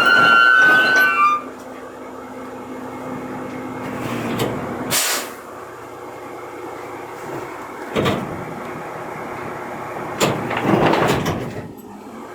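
Garbage truck in use: a high squeal in the first second and a half, as of brakes bringing it to a stop, then a short hiss of air about five seconds in, a sharp knock near eight seconds, and a rattling clatter near the end.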